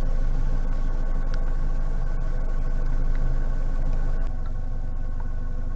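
Narrowboat engine running steadily while cruising, a low, even engine note; about four seconds in it drops a little in level, as if the throttle is eased back.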